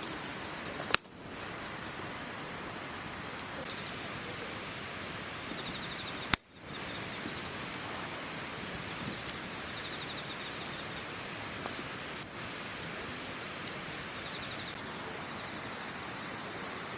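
Steady outdoor hiss with faint, short, high insect trills that come three times. Two sharp clicks, about one second in and about six seconds in, each followed by a brief dip.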